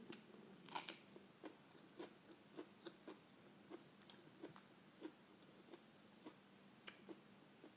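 Faint close-up chewing of raw vegetables: small crunches and wet mouth clicks, about one or two a second, with a louder crunch about a second in.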